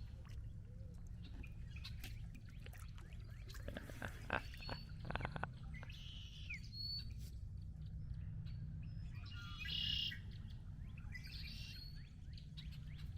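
Wild birds chirping and calling now and then, over a steady low rumble. A quick run of sharp knocks comes about four to five seconds in.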